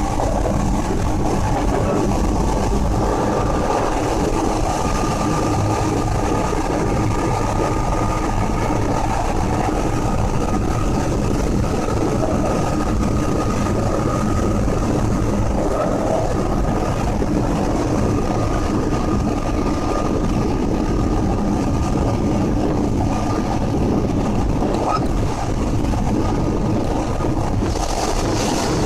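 Hankyu Kyoto Line electric train running at speed, heard from inside the car: a steady rumble of wheels on rail with a faint high whine held throughout, and more hiss near the end.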